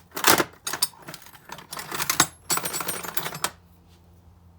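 Small micro ratchet wrench clicking through several quick strokes, stopping about three and a half seconds in.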